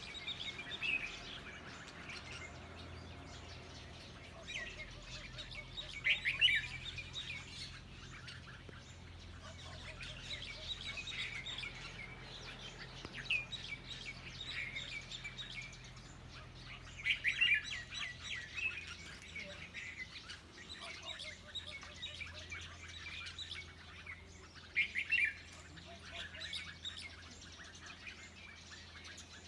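Small birds chirping: scattered short calls with louder bursts of quick notes about six, seventeen and twenty-five seconds in, over a faint low hum.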